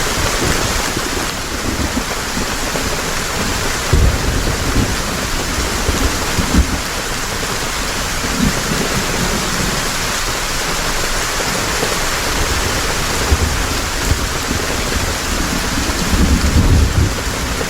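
Heavy rain falling steadily, with a few low rumbles, the longest one near the end.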